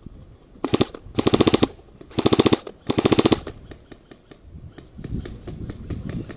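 Airsoft gun firing on full auto in four short bursts of rapid, evenly spaced shots within about three seconds, followed by fainter scattered single shots.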